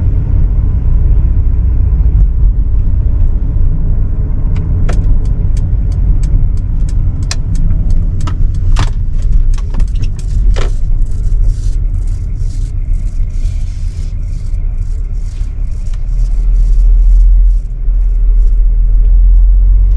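Mercedes GLB250's 2.0-litre turbo petrol four-cylinder engine running with a steady low rumble, with a run of sharp clicks from about five seconds in that come thicker and faster until near the end, and a louder surge of rumble near the end. The owner takes the engine's howl, whistle and diesel-like sound for abnormal, though the dealer says it is normal.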